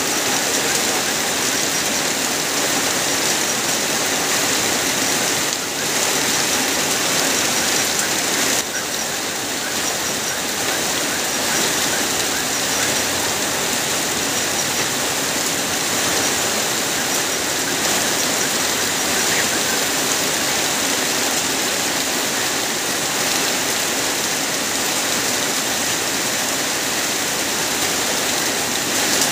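Heavy rain falling steadily: a dense, even hiss with no let-up, dipping only briefly about 6 and 9 seconds in.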